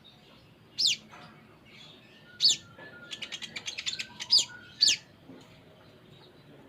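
Olive-backed sunbird (kolibri ninja) singing: four short high notes that sweep steeply downward, with a fast trill of rapid notes, about ten a second, in the middle.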